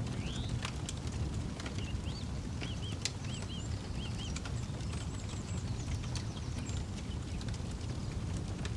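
Campfire crackling, with irregular sharp snaps of burning wood over a low steady rumble. Birds call in the background: one repeats a short arched note four times, with fainter high twittering after.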